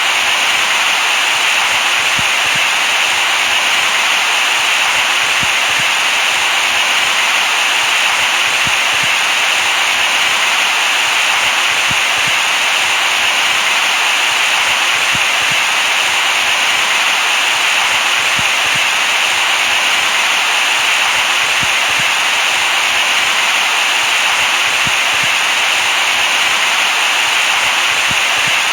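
Continuous white noise for lulling a baby to sleep: an even, unchanging hiss, brightest in the upper middle and light in the bass.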